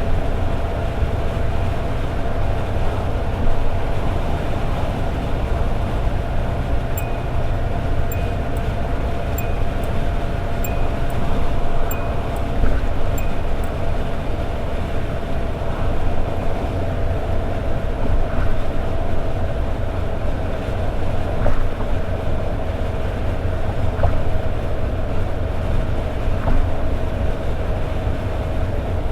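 Toyota AE86 Sprinter Trueno's 4A-GE four-cylinder engine and road noise while cruising at steady highway speed: a steady low rumble with an even, held engine tone. About a quarter of the way in there is a short run of light, regular ticks, a couple a second.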